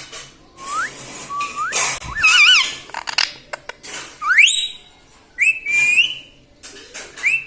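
Indian ringneck parrot whistling: a string of separate whistles, short rising glides, a wavering trill and a fast upward sweep, with small clicks between them.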